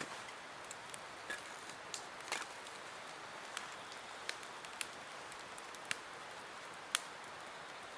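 Wood campfire crackling: irregular sharp pops and snaps over a steady soft hiss, the loudest pop near the end.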